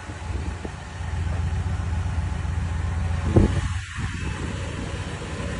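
Boat's motor running steadily at a low rumble, with a single sharp thump about three and a half seconds in.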